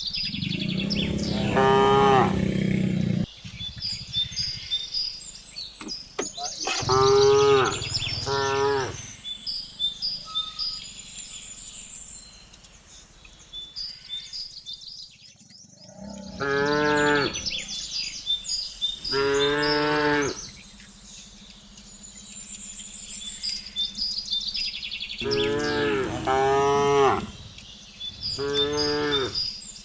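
Cattle mooing: a run of long, drawn-out moos, about seven in all, most coming in pairs a few seconds apart. Faint high bird chirps sound in between.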